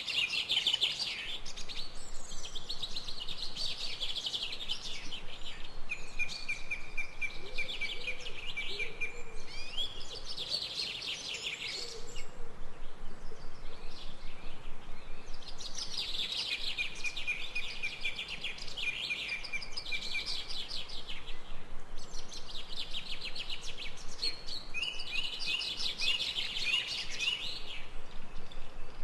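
Birdsong: bouts of rapid, high chirping trills lasting a few seconds each, coming one after another, with a pause of about three seconds just after the middle.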